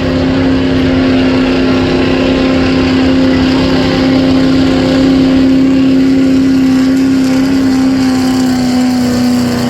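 Pulling truck's engine at full throttle, dragging the weight sled down the track. The pitch is held steady and sags slightly near the end as the load builds.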